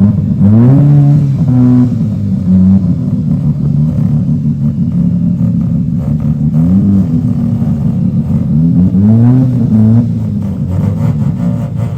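A car engine idling and being revved in short blips, its pitch rising and falling sharply a few times: about a second in, around seven seconds, and twice near nine to ten seconds.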